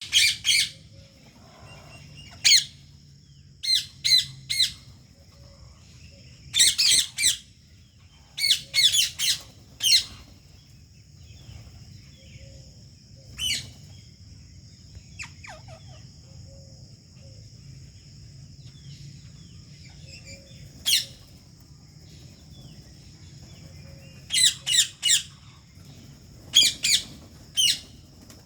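Rose-ringed (Indian ring-necked) parakeets giving loud, shrill squawks in quick runs of two to four calls, with pauses of a few seconds between runs. A steady high-pitched whine runs underneath.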